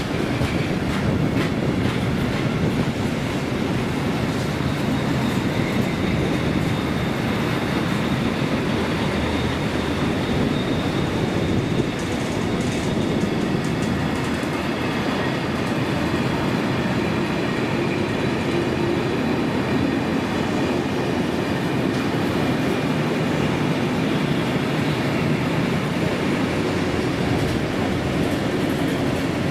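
Freight train of bogie tank wagons rolling steadily past close by, a continuous rumble of wagon wheels running on the rails.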